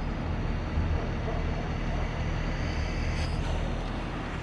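Bucket truck engine running steadily with a low, even rumble.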